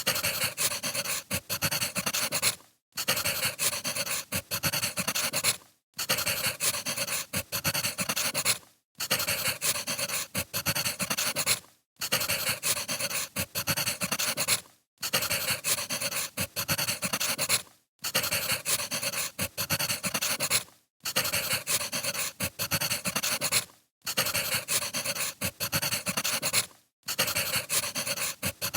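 Crackling wood fire: a dense run of small pops and crackles from burning firewood, breaking off in a brief gap of silence about every three seconds, as a short recording looped over and over.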